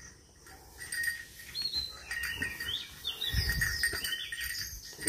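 Small birds chirping and twittering in quick short calls, with a dull low thump about three and a half seconds in.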